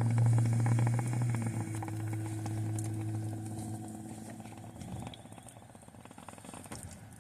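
A motor vehicle's engine humming steadily, fading out over about five seconds.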